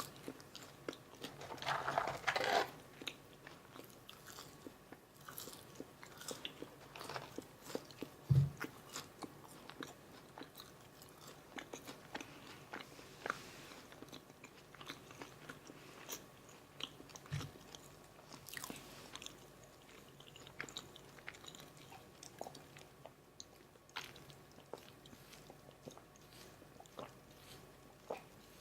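Close-miked eating of McDonald's Filet-O-Fish meal food: biting and chewing with many small crisp crunches, a denser crunchy stretch about two seconds in. Two dull low thumps, about eight and seventeen seconds in.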